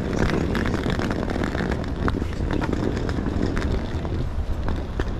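Outdoor city noise: a steady rumble of traffic and wind buffeting the microphone, with scattered small clicks and knocks.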